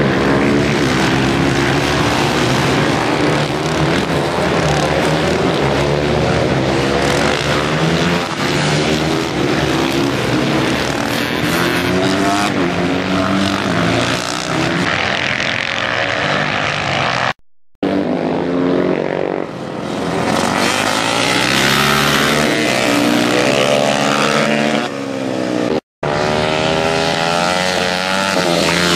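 Several racing motorcycle engines revving hard, their pitch rising and falling as the bikes accelerate and ease off around the track. The sound cuts out briefly twice.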